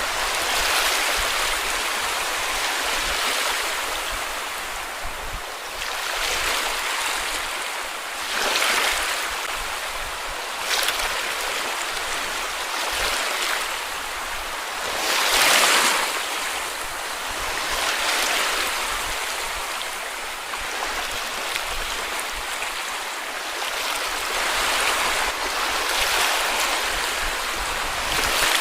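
Small sea waves washing onto a beach, rising and falling in gentle surges every few seconds, with the strongest wash about halfway through.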